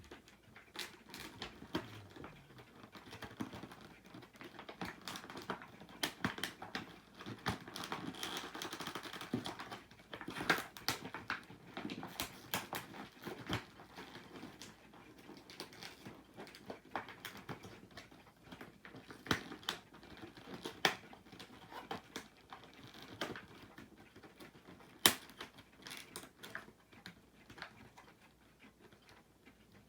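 Hands working a toy out of tight store packaging: scattered clicks, taps and crinkling rustle, busiest in the first half, with one sharp louder click near the end.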